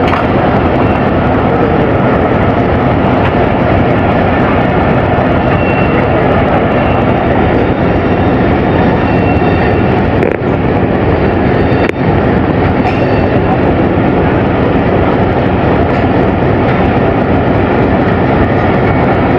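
Pakistan Railways passenger train, the 14 Down Awam Express, rolling slowly through the station on the adjacent track as it pulls in: a loud, steady rumble of coach wheels on the rails, with a faint high squeal now and then.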